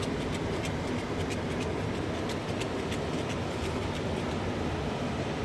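A fast-flowing mountain river rushing steadily, with a few faint clicks of water over stones.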